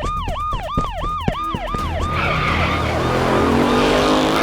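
A siren in fast yelp mode, about four rising-and-falling wails a second, loud at first and fading after about two seconds. A vehicle engine runs underneath, its pitch climbing in the second half.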